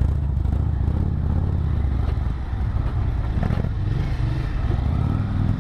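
Single-cylinder four-stroke engine of a Yamaha XT 600E motorcycle running steadily while ridden, with a few knocks and rattles, one about three and a half seconds in.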